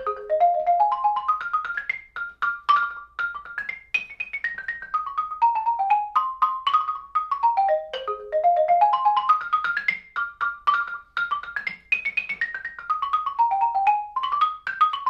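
Xylophone played with mallets: a fast run of short, bright single notes climbing and falling in a repeating exercise pattern, the phrase played twice.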